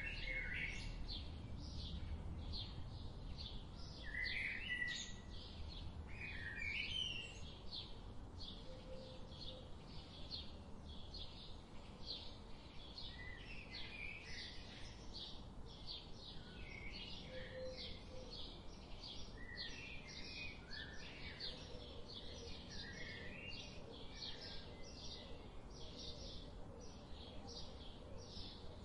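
Forest birds calling: a steady run of short high chirps, about two to three a second, with warbling lower phrases every few seconds. A low rumble of footsteps and camera handling from walking on a trail runs underneath.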